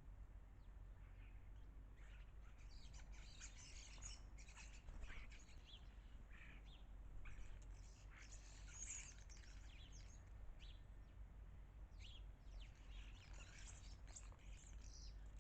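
Garden birds chirping and calling, many short high chirps and trills overlapping, over a faint steady low hum.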